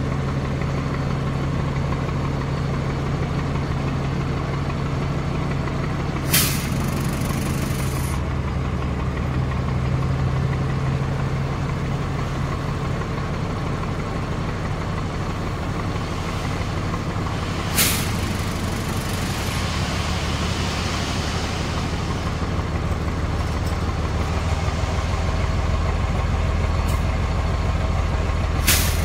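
Heavy truck's diesel engine running steadily, with three short, sharp air-brake hisses, the first two trailing off in a hiss for a second or two.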